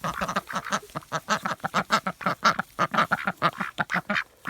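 Ducks quacking in a rapid, continuous run of short calls, about five a second, that breaks off shortly before the end.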